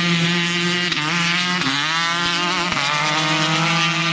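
Dirt bike engine running at high revs, its pitch held nearly steady, with brief dips about one second and about two seconds in.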